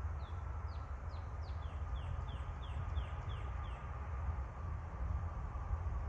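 A bird calling a quick series of about a dozen short whistled notes, each sliding downward, about three a second, stopping about four seconds in. Under it runs a steady low rumble.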